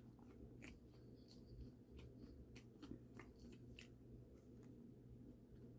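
Faint close-up chewing of food: soft, irregular mouth clicks and small crunches over a low steady room hum.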